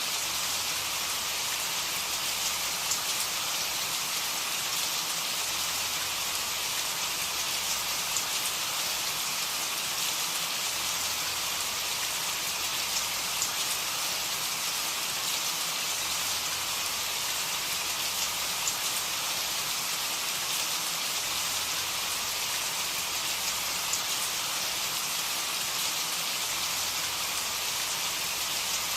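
Steady rain: a dense, even hiss of falling rain with scattered sharper drop ticks, unchanging throughout.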